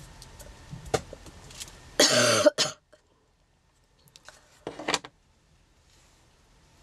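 A woman with a head cold coughing: a loud cough about two seconds in and a shorter one near five seconds, with a light tap about a second in.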